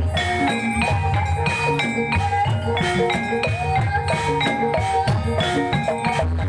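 Live Javanese gamelan music for an ebeg dance: mallet-struck keyed instruments play a quick running melody over steady drum strokes.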